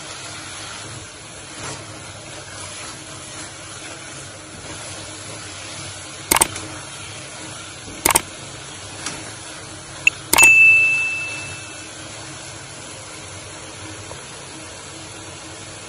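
Grated carrots frying in ghee in a wok for gajar ka halwa, a steady soft sizzle. Three sharp clicks come about six, eight and ten seconds in, the last followed by a short bell ding: the sound effects of a like-subscribe-bell button animation.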